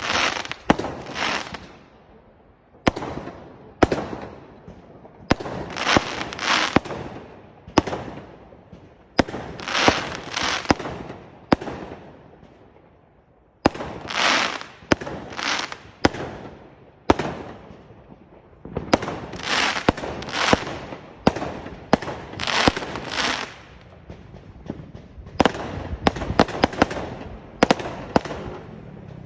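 Fireworks going off in quick succession: sharp bangs, each followed by a second or so of crackling noise. There is a lull of a couple of seconds about halfway through.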